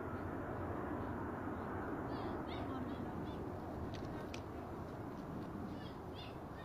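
Steady, dull jet-engine roar from the Airbus A380, slowly fading. Short chirping bird calls sound over it in two little runs, about two seconds in and again about six seconds in.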